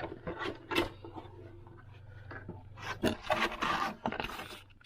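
Handling noises of a plastic RC car body shell being turned in the hands: a couple of light clicks near the start, then scraping and rubbing about three seconds in.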